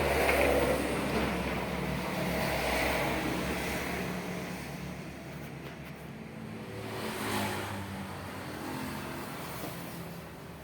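Kawasaki Ninja 250R's parallel-twin engine running, heard through a stock Ninja 250FI silencer fitted with a dB killer. The exhaust note is steady, a little louder in the first few seconds, with a brief swell about seven seconds in.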